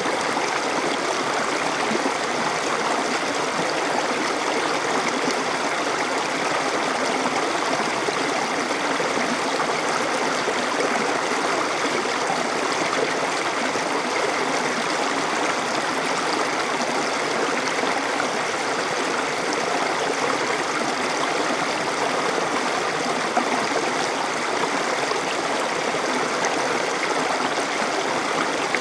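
Stream water flowing and trickling over rocks, a steady rushing with no pauses.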